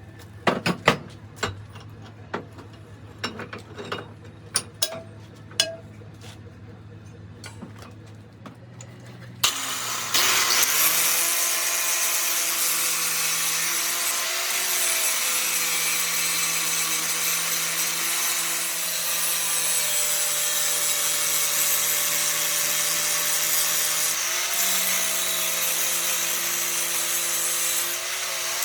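Scattered sharp metal knocks and clicks over a low hum. About nine seconds in, a power tool starts and runs steadily with a loud hiss, working the metal of a differential ring gear.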